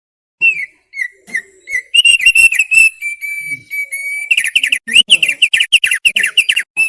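Thick-billed heleia (opior paruh tebal) singing in clear whistles. First come a few separate short notes, then a longer, steadier whistle. From a little past the middle it breaks into a fast run of quick rising and falling notes.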